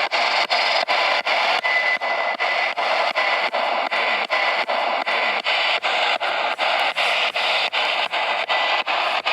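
Spirit box scanning through radio frequencies: hissing static chopped into short blips about five times a second.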